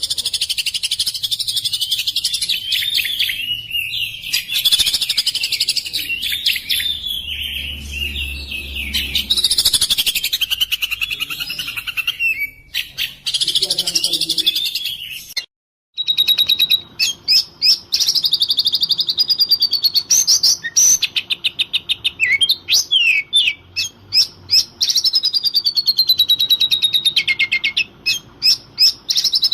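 Oriental magpie-robin (kacer) singing without pause: a rapid, varied run of whistles and chattering notes. It breaks off briefly about halfway through, then goes on with clear gliding whistles mixed with sharp clicking notes.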